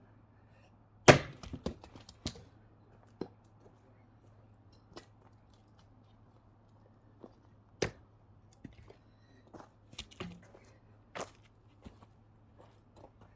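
Axe blows splitting firewood logs: one hard strike about a second in followed by a few smaller knocks of wood, another strong strike near the middle, and several lighter knocks toward the end.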